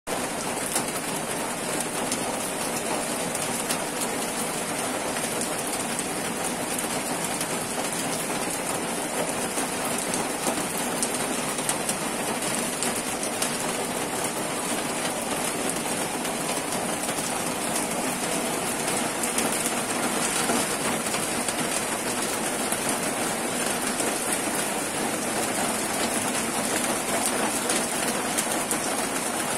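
Steady rain falling on trees and yard surfaces: an even hiss with many small taps of individual drops.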